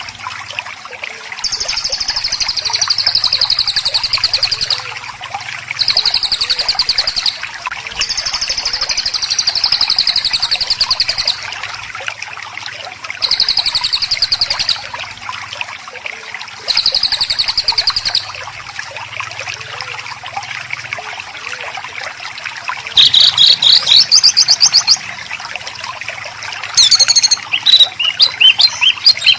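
Small songbird giving rapid, harsh trills (the tight 'rapid-fire' phrases of a masteran tutor track), each burst lasting one to three seconds with short pauses between. Near the end, louder rising bursts of rapid notes. A steady hiss like trickling water runs underneath.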